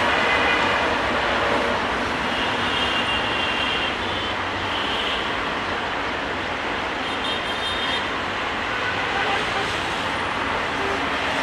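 Steady rumble and hiss of a distant diesel train on the tracks, mixed with surrounding traffic noise, slowly getting a little quieter.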